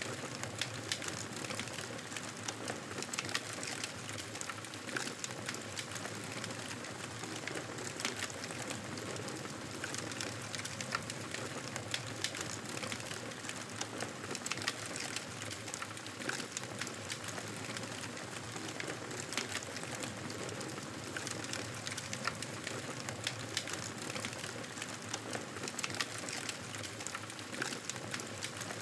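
Campfire burning, with frequent sharp crackles and pops of the wood over a steady hiss.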